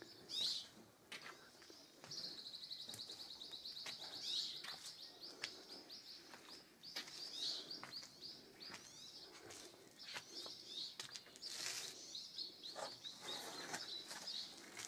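Small birds chirping and twittering in a rapid, high, near-continuous run of chirps that thickens about two seconds in.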